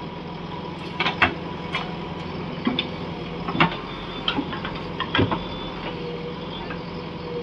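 Backhoe loader's diesel engine running steadily, with a string of sharp, irregular clanks and knocks, the loudest about a second in and around the middle.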